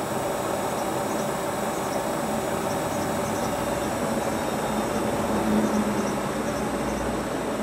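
Hotpoint Ultima WT960 washing machine running with a steady motor and drum hum, a low rumble swelling briefly near the end.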